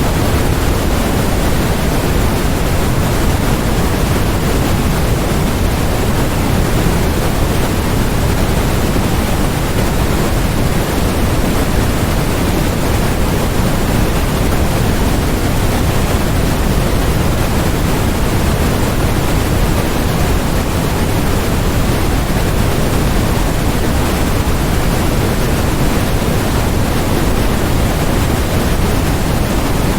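Steady electronically generated white noise: an even, unbroken hiss with more weight in the low end, unchanging in level.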